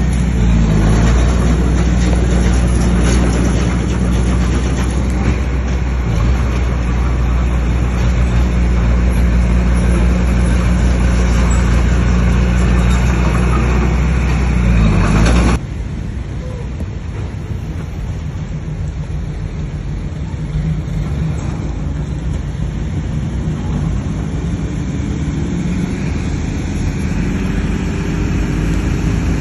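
Heavy earthmoving machine's diesel engine running steadily under load. About halfway through the sound cuts abruptly to a quieter engine, which rises in pitch near the end as it revs up.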